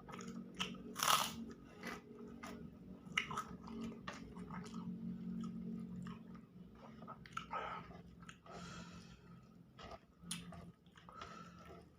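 A person chewing and biting food close to the microphone, with irregular wet mouth clicks and occasional crunches while eating spicy balado eggs.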